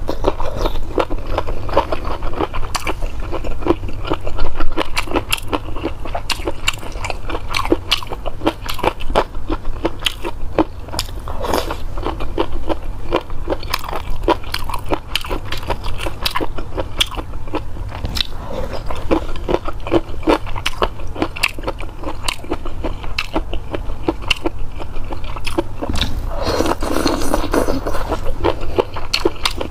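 Close-miked chewing of chilled boneless chicken feet in sauce: a steady run of wet crunches, crackles and smacks as mouthfuls are bitten and chewed, with one louder bite about four and a half seconds in.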